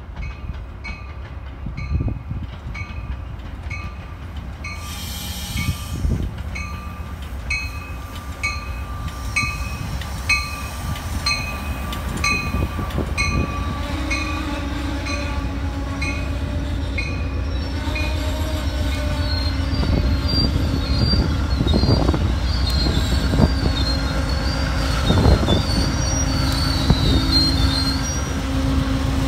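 Shore Line East push-pull commuter train rolling along the station platform, its wheels making a low rumble that grows louder as the train passes. A bell rings about once a second for the first half, then high wheel squeal comes in during the second half. The diesel locomotive's engine drone builds toward the end.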